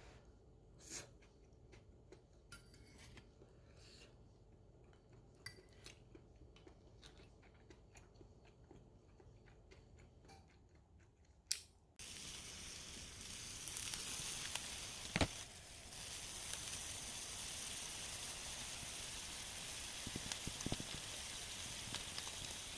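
Quiet kitchen prep with scattered light clicks and taps. About halfway through it changes suddenly to the steady sizzle of food frying in a pan, with a few sharp utensil clinks.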